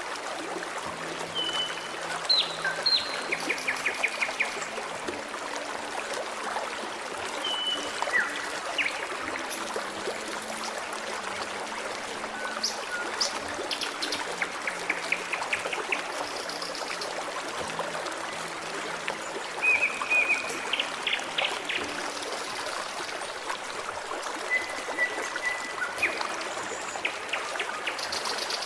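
Forest stream running and trickling steadily over stones, with birds singing short chirps, trills and whistles now and then throughout.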